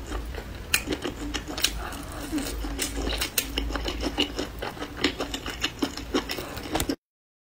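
Close-miked chewing of skewered spicy food: a steady run of wet, crackling clicks from the mouth, irregular and several a second. It cuts off suddenly near the end.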